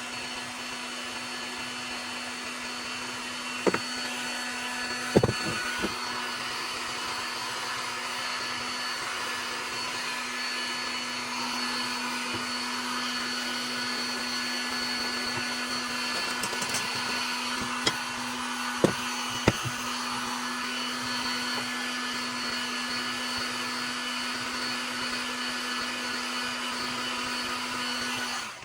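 Heat gun blowing steadily with a constant hum, heating an aluminium saw crankcase half to loosen its main bearing; a few sharp knocks sound against it, and the blower cuts off suddenly at the end.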